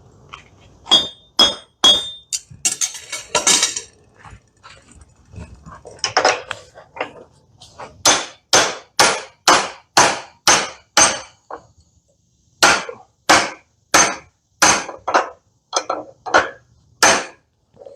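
Blacksmith's hammer striking a hot railroad-spike axe head. The blows come in runs of about two a second, with short pauses between runs, and the first few strikes ring with a clear high ping.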